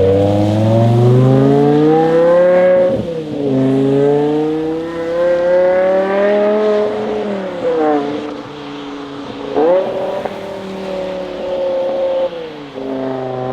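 A performance car's engine accelerating hard through the gears. Its note climbs, then drops sharply at an upshift about three seconds in, climbs again and falls around seven to eight seconds, with a sudden rev rise near ten seconds.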